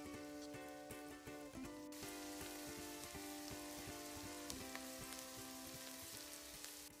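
Spring onions and garlic sizzling in hot oil in a steel wok. The sizzle comes in sharply about two seconds in and stops just before the end. Background music with held notes plays throughout.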